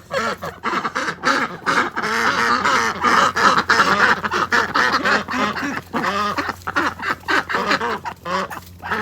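Ducks quacking: many short calls in quick, overlapping succession.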